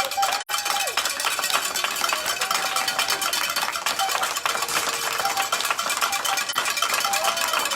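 Steady background hiss of a busy shooting hall, full of small clinks and rattles; no single shot stands out.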